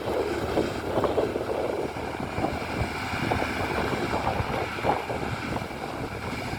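Prentice forestry machine's diesel engine running steadily, with irregular crackles and knocks over it.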